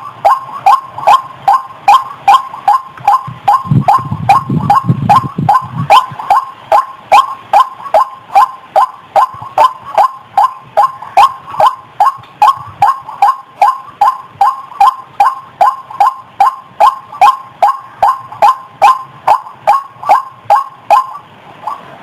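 White-breasted waterhen (ruak-ruak) calls played back as a lure: a fast, unbroken run of short harsh notes, about two and a half a second. A low rumble sits under the calls about four seconds in, and the calls pause briefly near the end.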